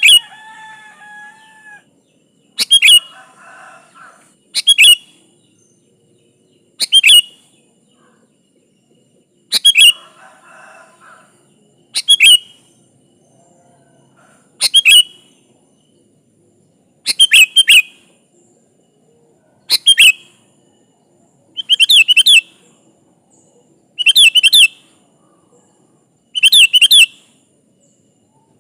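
Sooty-headed bulbul (kutilang) calling: short, loud whistled phrases repeated about every two seconds, a dozen in all, the later ones doubled. Softer chatter comes between the first few.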